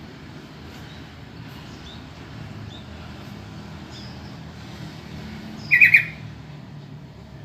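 Sooty-headed bulbul (trucukan) giving one short, harsh burst of rapid call notes about six seconds in, with a few faint short chirps before it. A steady low rumble runs underneath.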